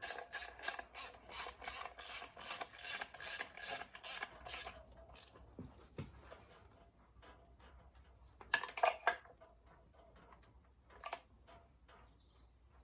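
Socket ratchet clicking in quick even strokes, about three a second, as a clutch cover bolt is wound down onto the engine. The ratcheting stops about five seconds in, followed by a brief clatter of metal handling a few seconds later.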